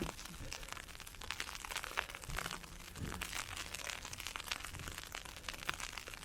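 Footsteps crunching through heavy snow, with a dense patter of fine ticks from blowing ice pellets and a low wind rumble underneath.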